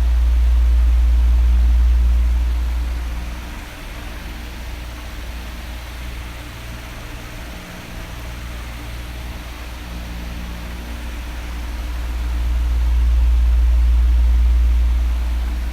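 Electric fan running: a steady airy hiss over a faint motor hum. A low rumble swells and fades twice, about twelve seconds apart, in time with the oscillating fan's sweep.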